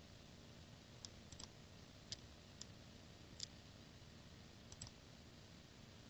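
Dell Inspiron 15 laptop giving off faint, irregular clicks, about six of them at uneven intervals, over a low steady hiss.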